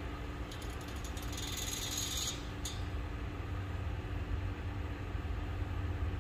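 Low, steady rumble of a distant diesel freight train, with a faint steady hum under it. A short high hiss comes about a second in and lasts about a second.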